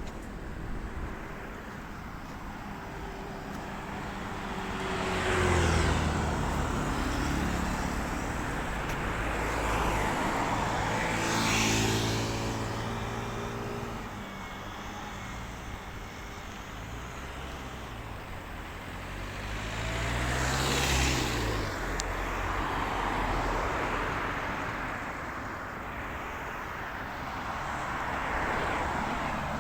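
Road traffic: cars passing one after another, each swelling and fading away over a steady background hum, with the loudest passes about five, twelve and twenty-one seconds in.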